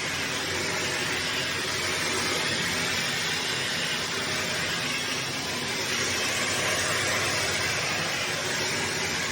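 Hoover HL4 upright vacuum cleaner running steadily, its motor and suction giving an even whooshing roar.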